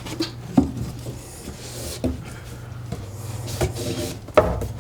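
A few scattered knocks and rubbing as a plumbing pipe and fitting are handled and pulled at, over a steady low hum.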